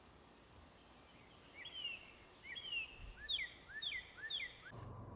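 A bird calling: a run of short, quick chirping notes, more evenly spaced near the end, over faint outdoor background. Just before the end it cuts to a steady low hum.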